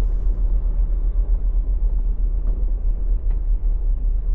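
Semi-truck diesel engine rumbling low and steady, heard from inside the cab as the truck rolls slowly.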